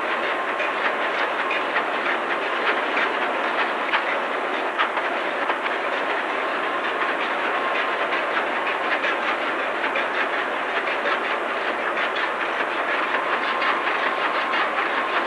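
Large two-stroke marine diesel engine running, a steady dense clatter of rapid knocks with a faint steady whine.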